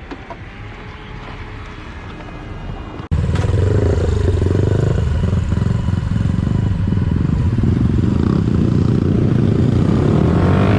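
Motorcycle engine running with road noise. It is quieter for the first three seconds, then comes in abruptly much louder and stays steady.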